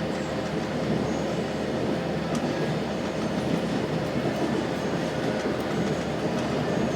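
Cabin noise of a 3100 class diesel railcar running between stations: a steady rumble of wheels on rail and the engine, with a steady hum.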